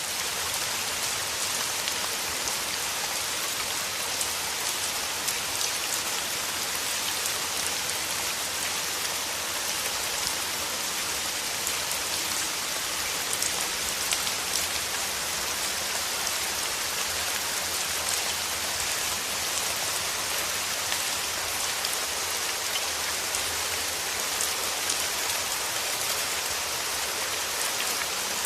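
Steady rain falling through forest trees, a dense even hiss with scattered crisp drop ticks.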